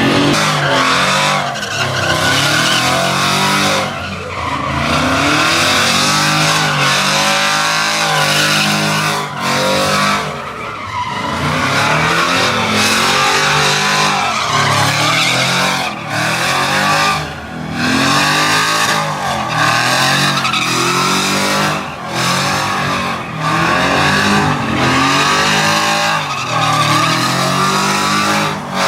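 A truck engine revving hard again and again over the squeal of spinning tyres during burnouts and donuts. The engine pitch keeps rising and falling, with short drops in loudness every few seconds.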